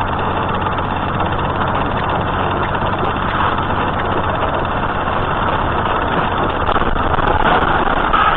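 Steady engine drone and road noise from a moving vehicle, picked up by a dashcam, even throughout with no impacts.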